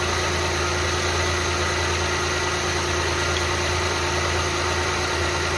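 Renault Kwid's 799 cc three-cylinder petrol engine idling steadily, not yet warmed up, running smoothly with no hunting and no misfire after its cylinder head was refitted.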